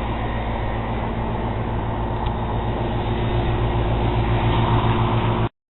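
A steady mechanical hum with a low drone over a rushing noise, cutting off abruptly about five and a half seconds in.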